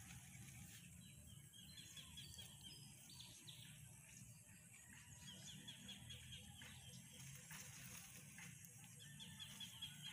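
Faint outdoor ambience: a bird calling in several quick runs of short repeated chirps, over a low steady background noise.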